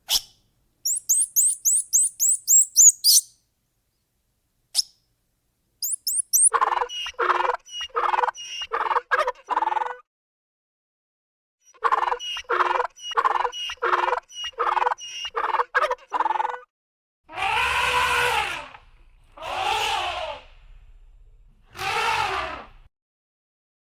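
A series of animal calls: a quick run of high chirps, then two runs of short calls repeated about twice a second, then three long, drawn-out calls near the end.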